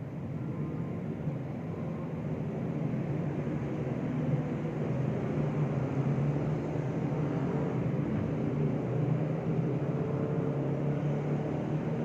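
Low, steady mechanical rumble with a hum, growing a little louder a few seconds in.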